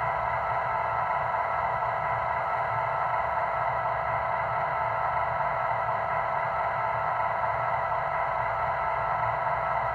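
Steady, unchanging idling sound from an MTH model NW2 diesel switcher's onboard sound system: a hiss with a low rumble beneath it, coming through a small speaker.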